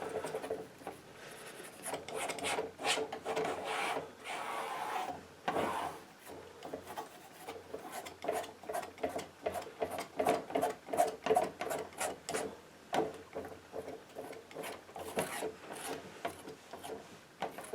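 Painting knife scraping and dabbing paint across a painting board in a run of short, irregular strokes.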